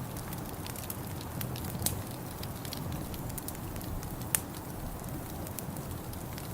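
Wood fire in a fireplace crackling, with irregular sharp pops, two of them louder about two seconds and four and a half seconds in, over a steady low rumble.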